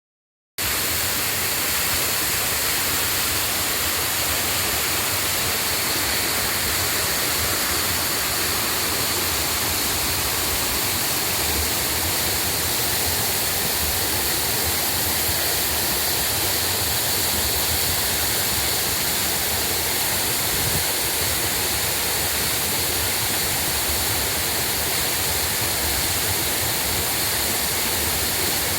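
Waterfall: a steady, unbroken rush of falling water that starts about half a second in and holds an even level throughout.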